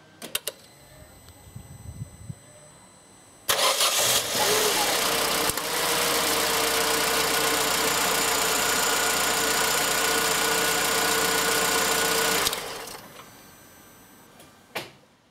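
Opel Corsa C 1.2 Twinport Ecotec four-cylinder petrol engine starting on its first start after new spark plugs. After a few clicks, it comes to life suddenly about three and a half seconds in and runs at a steady idle. It stops after about nine seconds, with a click near the end.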